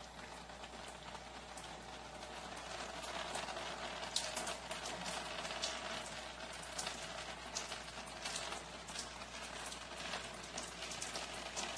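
Water leaking and dripping from a deteriorated old building pipe, irregular drops ticking over a steady hiss of running water; the drips grow louder and more frequent about three seconds in.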